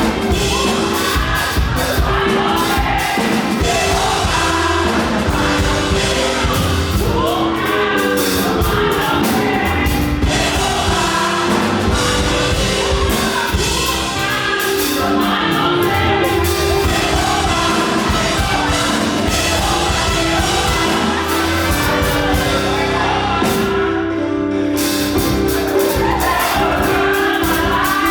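Live up-tempo gospel praise music: a group of singers over a band with drums. The drums and cymbals drop out for a moment about three-quarters of the way through.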